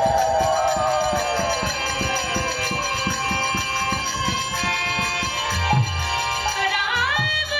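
Instrumental kirtan music: sustained stacked tones and a wavering melody line over fast, even percussion strokes, with the melody gliding upward near the end.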